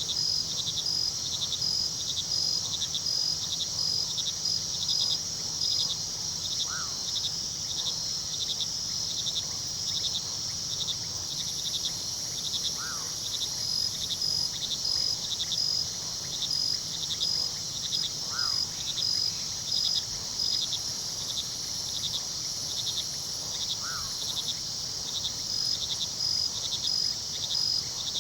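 Night chorus of crickets: a dense, steady high trill with rapid, evenly pulsed chirps over the low, steady rush of a river. A short rising-and-falling call repeats about every six seconds.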